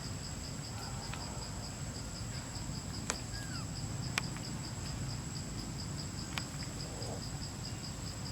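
Insects chirping steadily: a high, evenly pulsing trill with a steady thin whine above it, over a low rumble. Three short sharp clicks stand out over it, spread through the middle.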